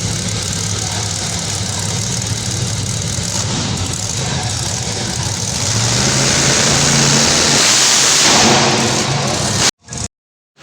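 Monster truck engine running, then revving louder and higher from about six seconds in; the sound cuts off abruptly near the end.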